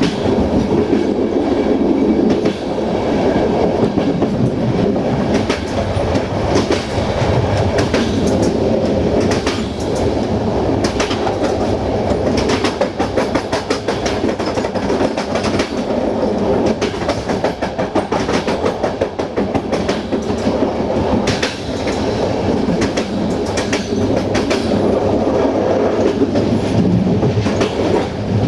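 Passenger train running along the track, heard from the rear of the last coach: a steady rumble with the wheels clicking over rail joints.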